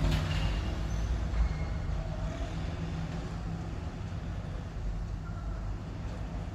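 Airbus A350 jetliner passing on landing approach, its Rolls-Royce Trent XWB turbofan engines making a deep, steady rumble. The rumble is loudest near the start and slowly fades as the aircraft goes by.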